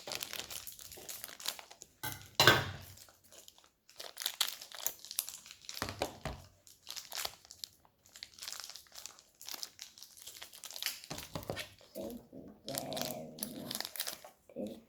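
Plastic toy packaging crinkling in irregular bursts as it is handled and torn open, loudest about two and a half seconds in.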